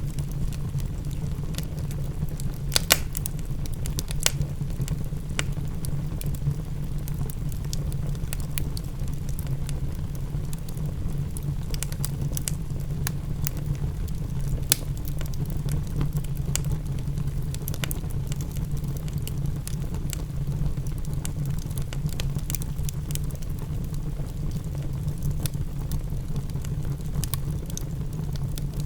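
Wood fire crackling in a fireplace, with sharp pops scattered through it (the loudest about three seconds in and again near fifteen seconds) over a steady low rumble, while rain patters.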